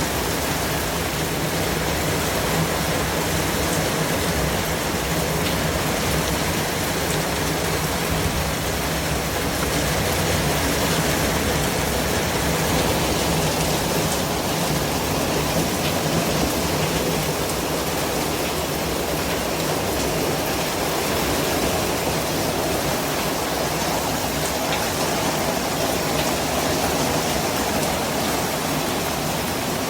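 Steady white noise: an even, unbroken hiss spread across low and high pitches, with no changes.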